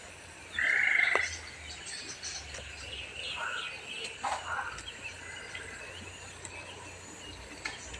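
Birds calling: one loud, harsh call lasting about half a second near the start, then scattered short chirps.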